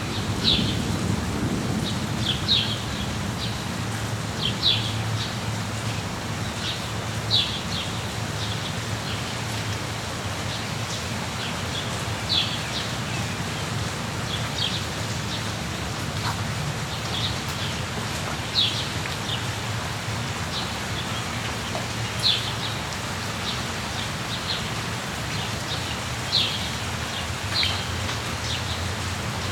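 Steady rain with a bird calling over it again and again: short high calls of a few quick notes, roughly every two seconds.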